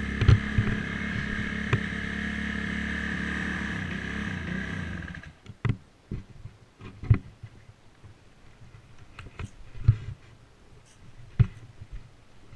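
Dirt bike engine running steadily at an even pitch, then shut off about five seconds in. After that come a few scattered knocks and clicks.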